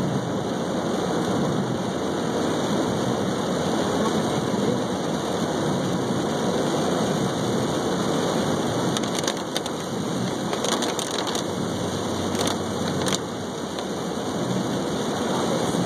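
Steady rushing hiss of water, with a few short crackles between about nine and thirteen seconds in.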